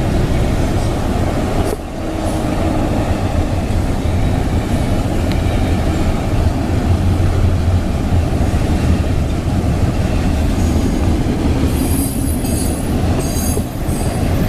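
Florida East Coast Railway freight cars rolling past at close range: a loud, steady rumble of steel wheels on rail, with a brief dip about two seconds in. Near the end, high thin squealing tones join in, typical of wheel flanges squealing on the rail.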